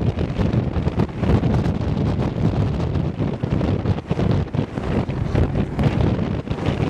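Wind buffeting the microphone, a heavy low noise that swells and drops unevenly.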